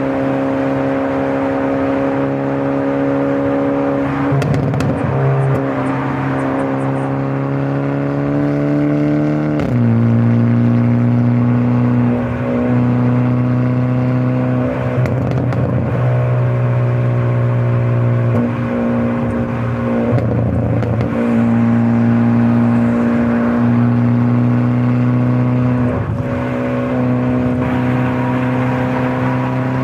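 Hyundai Elantra N's 2.0-litre turbocharged four-cylinder engine and exhaust pulling at steady, moderate revs while driving. The pitch climbs slowly, drops sharply about ten seconds in as it shifts up a gear, then holds fairly level.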